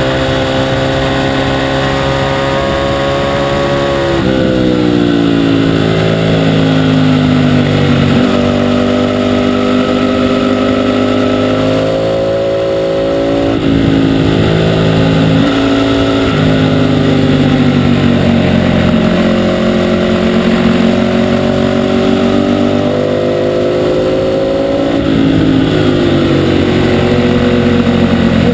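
Ducati 848 sport bike's L-twin engine running hard on a race track, heard from on board. Its pitch climbs as it accelerates and drops sharply several times as the rider backs off and shifts down for corners.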